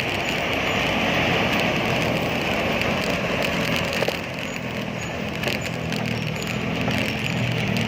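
Steady road traffic noise on a busy city road: motor vehicle engines running alongside, with a low engine drone that grows stronger in the second half.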